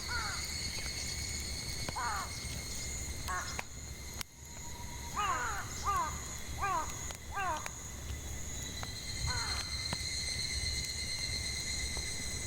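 Crows cawing in harsh, falling calls, some single and some in quick runs of four or five, over the steady high drone of cicadas. A few faint pops of burning firewood.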